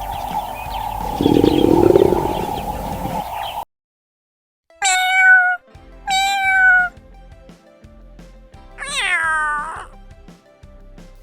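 Domestic cat meowing three times, each meow under a second; the third slides down in pitch. Before them, a continuous noisy sound with a steady tone cuts off suddenly, followed by about a second of silence.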